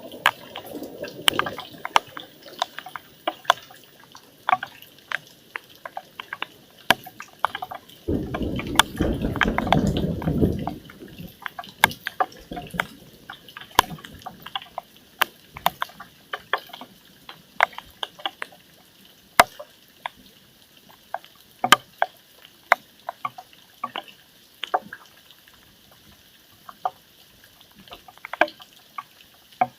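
Raindrops dripping during a thunderstorm: scattered sharp drops striking a hard surface at irregular intervals. About eight seconds in, a low rumbling noise swells for about three seconds.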